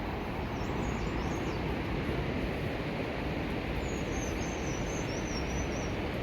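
Steady rushing outdoor noise, with a small bird's high twittering calls about half a second in and again in a longer run from about four seconds in.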